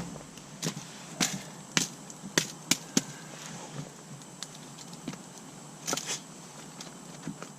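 Firewood being handled as a campfire is moved and rebuilt: irregular sharp knocks and clatters of logs and sticks being picked up and set down, the loudest cluster in the middle of the stretch.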